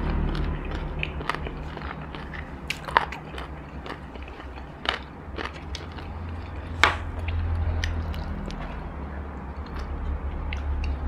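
Close-miked chewing of crispy battered fried chicken, with irregular sharp crunches over a low steady hum.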